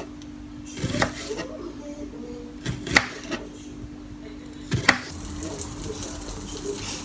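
Kitchen prep knocks: a handful of sharp, widely spaced strikes on a hard surface, over a steady low hum that stops about five seconds in.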